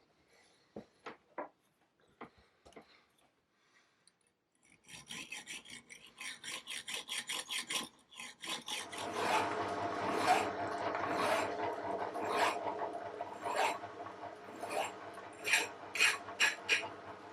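Hand rasping strokes on a small screw being cut off and filed clean, about four strokes a second. About nine seconds in, the steady hum of the running Myford lathe joins, with further rasping over it and a few sharper strokes near the end.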